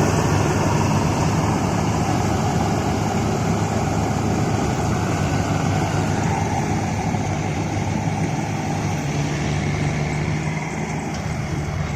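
Diesel farm machinery engine running steadily under load, easing slightly quieter near the end.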